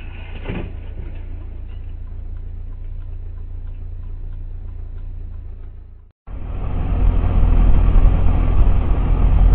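Car engine and road noise picked up by a dashcam inside a moving car: a steady low rumble that breaks off about six seconds in, followed by louder, fuller road and engine noise.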